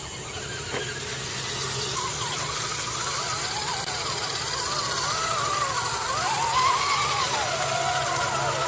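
RC truck motor whining, its pitch rising and falling again and again as the throttle is worked, over a steady hiss.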